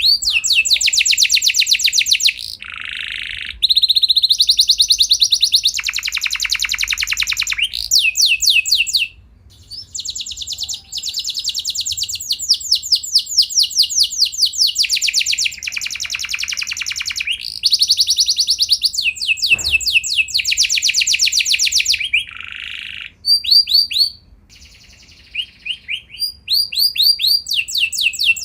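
Domestic canary singing a long song made of fast rolling trills, each a rapid run of one repeated note, switching from one trill to the next with a couple of brief pauses.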